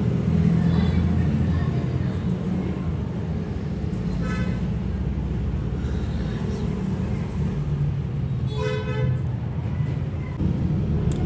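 Vehicle horns tooting briefly twice, about four seconds in and again near nine seconds, over a steady low rumble.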